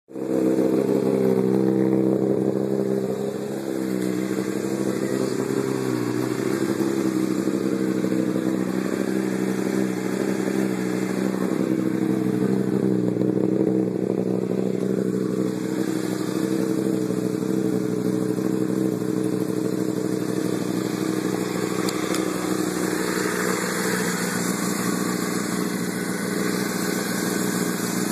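2008 Honda CBR600RR's inline-four engine idling steadily.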